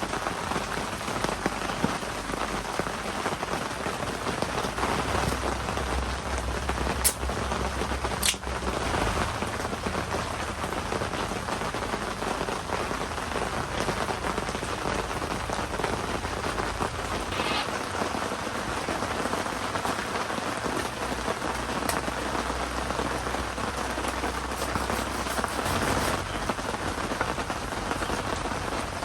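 Heavy typhoon rain falling steadily, with two sharp ticks about a quarter of the way in.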